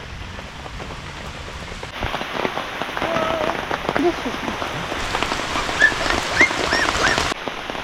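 Heavy rain falling steadily as a dense patter of drops, growing louder about two seconds in.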